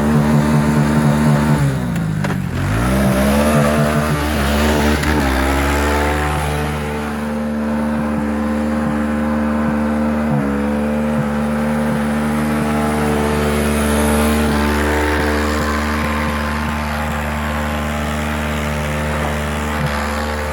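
Vehicle engine run at high revs, chattering against the rev limiter at first. Its pitch drops sharply about two seconds in, climbs back, then is held steady at high revs with a brief dip about ten seconds in.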